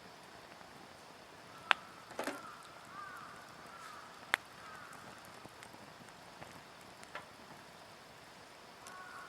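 Wood fire burning, pine logs crackling with a few faint ticks and two sharp pops, the louder one about a second and a half in. A faint wavering whistle comes and goes, about two seconds in and again near the end.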